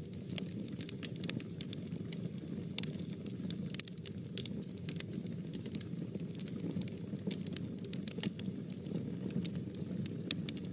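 Fire burning in a fireplace, with a low steady rush and frequent sharp crackles and pops scattered irregularly throughout.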